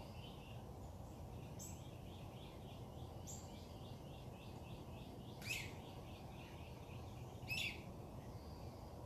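Backyard songbirds calling: a run of quick high chirps about two a second, with a few sharp, louder calls that drop in pitch, the loudest a little past the middle. Under them a steady low background rumble.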